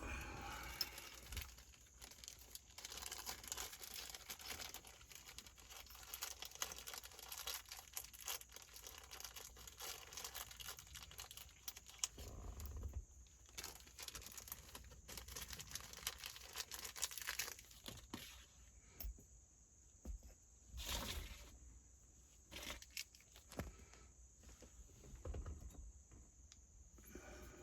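Hands working on parts in a truck's steering column: irregular rustling, light scraping and small clicks and taps, with a few louder handling noises.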